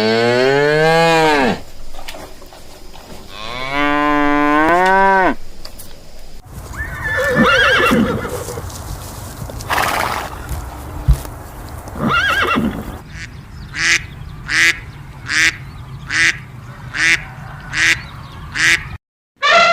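Farm animal calls: a cow mooing twice in long drawn-out calls, then a stretch of other animal calls, and near the end a quick series of about eight short, evenly repeated calls.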